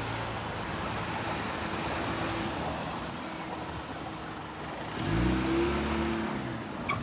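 A road vehicle's engine passing, revving up and back down about five seconds in, over a steady rushing noise.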